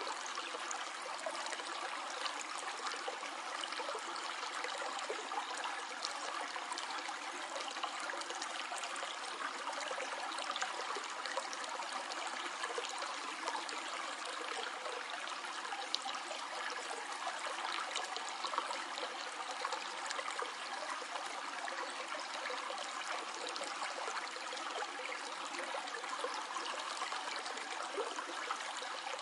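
Stream flowing steadily over rocks, a continuous trickling and babbling of water.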